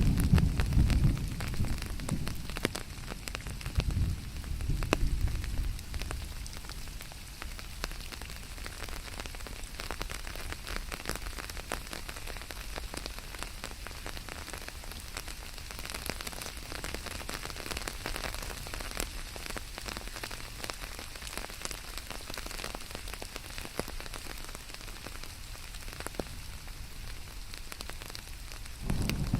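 Steady rain, with many individual drops ticking on a surface over a continuous hiss. A louder low rumble sits under it for the first few seconds and returns at the very end.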